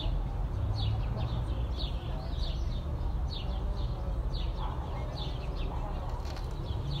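Small birds chirping over and over in short falling notes, a little more than one a second, above a steady low rumble of city background.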